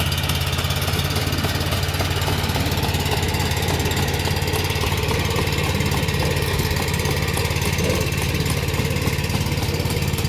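Maxxi PF48 rice transplanter's small engine running steadily at an even speed.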